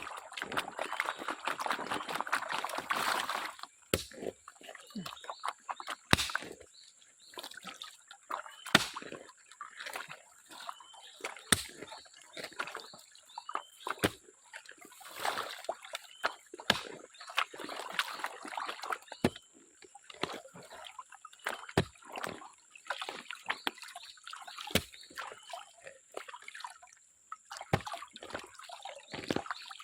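Water sloshing and splashing in irregular bursts as a gold pan is swirled, with a sharp knock every few seconds.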